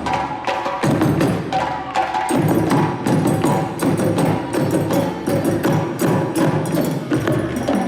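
A percussion ensemble playing live music, with a fast, steady rhythm of hand-drum and wood-block-like strikes.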